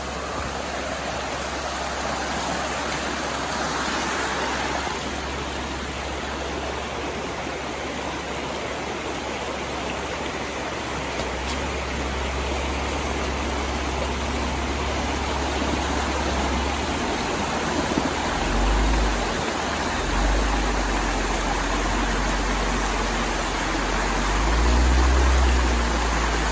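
Jeep Wrangler JK crossing a shallow stream in the rain: a steady rush of water, with a low engine rumble that grows from about halfway and swells a few times near the end.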